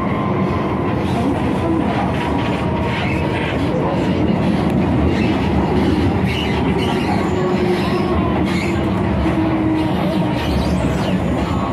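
MTR M-Train electric multiple unit running on the Kwun Tong line, heard from inside the car: a steady rumble of wheels on track, with faint thin squealing tones that come and go.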